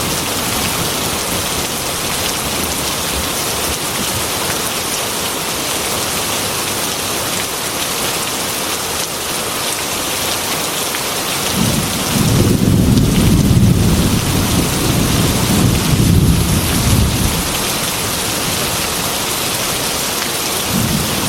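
Heavy rain pouring steadily onto a metal roof. About halfway through, a long roll of thunder rumbles for around six seconds, and another begins right at the end.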